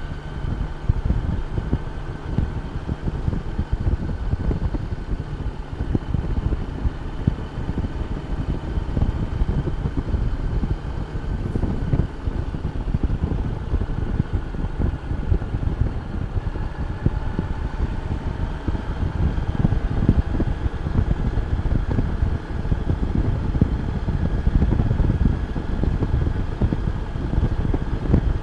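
Honda Gold Wing motorcycle cruising, its engine humming steadily under heavy wind buffeting on the microphone. The engine pitch rises a little about two-thirds of the way through.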